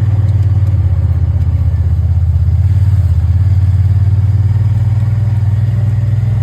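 Vehicle engine running steadily at low pitch, heard from inside the cab while driving.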